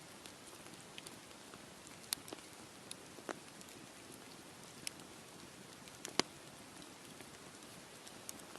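Campfire crackling: a steady hiss with scattered sharp pops of burning wood, the loudest a little after six seconds in.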